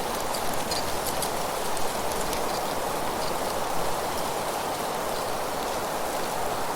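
Steady wind rustling through leaves, with a few faint, short high bird chirps.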